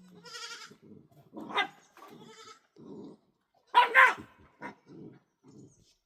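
Sheep bleating, with a dog barking loudly about a second and a half in and twice in quick succession around four seconds in.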